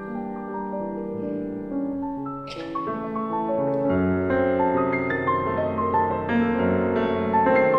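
Piano music playing held chords and slow melody notes.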